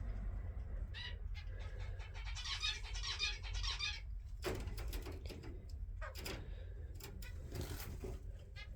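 Small aviary birds chirping and chattering, with a dense run of rapid high warbling about two to four seconds in. Scattered sharp clicks and knocks come through the second half.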